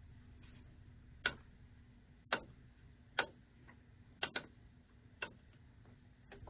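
Sharp irregular pops, roughly one a second, over a faint steady hum from a Sansui AU-9900 stereo amplifier playing through its speaker: the noise fault being traced in the amplifier.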